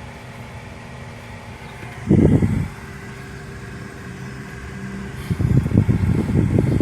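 Car interior while driving slowly: a steady low engine and road hum, a short loud low rumble about two seconds in, and uneven rumbling from about five seconds in.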